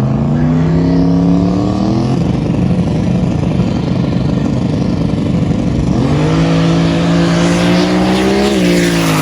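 Drag race car engine at full throttle: its pitch climbs over the first two seconds, gives way to a loud, rough stretch, then climbs again from about six seconds in and drops a step near the end.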